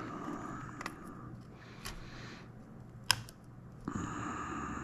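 Small clicks and soft scratching from fingers picking at stuck tape on plastic joystick parts, with one sharp click about three seconds in.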